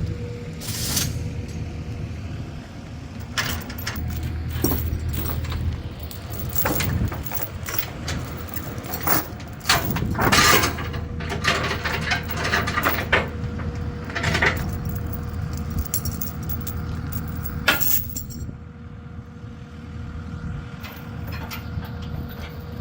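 A vehicle engine running steadily, with many metallic clinks and knocks over it.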